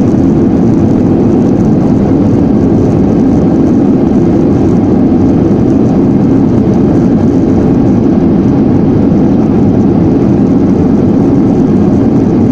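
Airliner cabin noise during landing: a loud, steady roar of the engines and rushing air heard from inside the passenger cabin, with no distinct thumps or changes.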